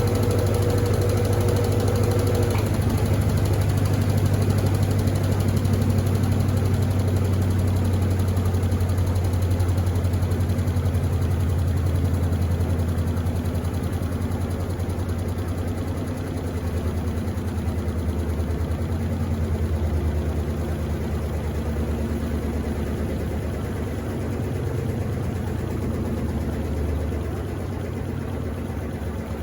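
Electrolux LTD15 top-loading washing machine in its spin cycle: a steady motor and drum drone with a deep hum, getting gradually quieter in the second half.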